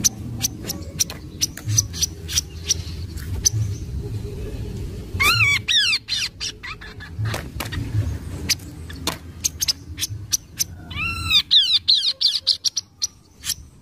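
Kaso-kaso bird lure call: two loud bursts of quick arched notes, one about five seconds in and one about eleven seconds in, over rapid sharp ticking clicks and a low steady hum.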